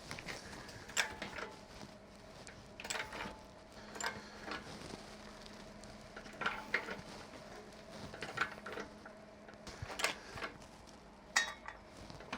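Irregular metallic clinks and clanks of hand tools and metal parts being handled, about a dozen scattered strikes, over a faint steady hum.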